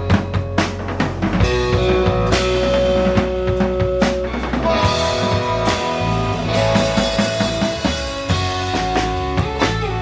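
Surf-rock band playing live: electric guitar melody in long held notes over bass guitar and a steadily beating drum kit.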